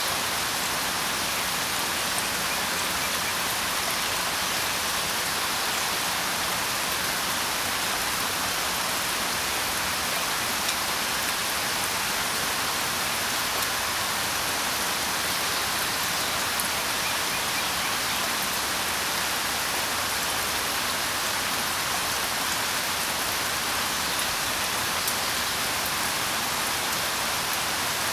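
Steady rain falling: an even hiss with faint scattered drop ticks and no change in strength.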